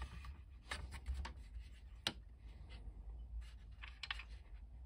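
Light rubbing and small clicks of a plastic toy tank's track being handled and pressed into place on the hull as it is glued, with one sharper tap about two seconds in.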